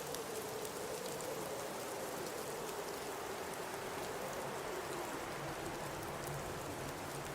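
Blizzard wind: a steady hiss with a low howl that slowly wavers in pitch, and scattered faint ticks.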